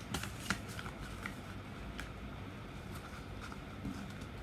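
A sheet of paper being folded and creased by hand: light, scattered crinkles and rustles, most of them in the first second or so.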